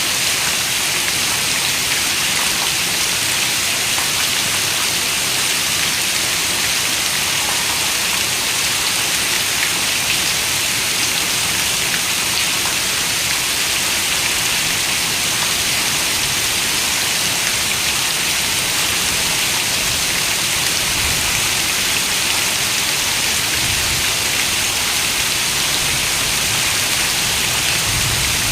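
Steady rain falling, an even, unbroken hiss of raindrops with no change in strength.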